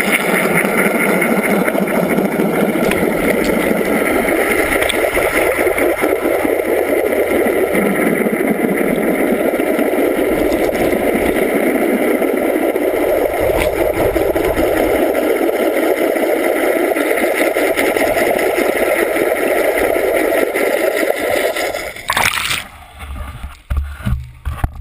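Boat underway at sea: a steady motor with rushing water, loud and unbroken, then dropping away suddenly about 22 seconds in.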